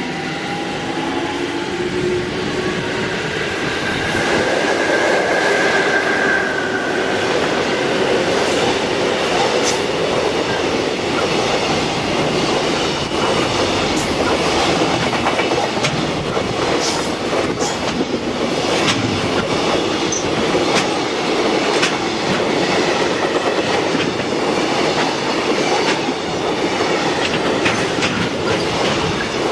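Container freight train rolling past at speed: steady wheel-and-rail noise with many sharp clicks of wheels over rail joints. A brief high wheel squeal comes in the first several seconds.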